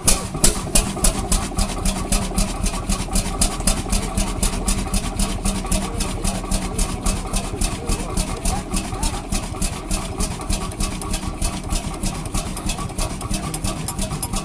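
Vintage internal-combustion engine running steadily, each firing stroke a distinct knock in a rapid even beat.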